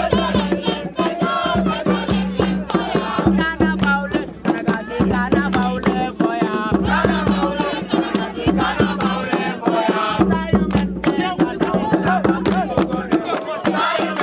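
A group singing and chanting together, with sharp percussive hits throughout and a steady low hum underneath.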